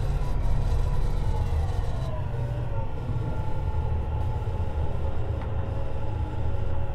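Tobu 50090 series electric train heard from under the car floor: a deep running rumble from wheels on rail, with the whine of the traction motors and inverter over it. Several of the whining tones slide down in pitch about two seconds in, then hold steady.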